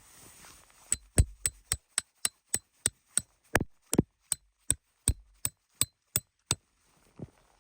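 A hammer driving a tent peg with a quick, regular run of about nineteen blows, roughly three a second, some with a faint metallic ring. The blows start about a second in and stop shortly before the end.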